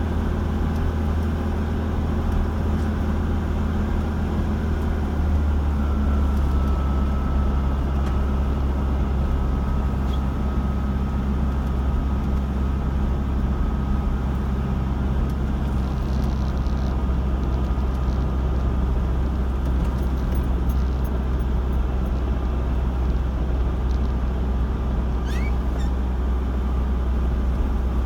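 Car on the move: a steady low drone of engine and road noise.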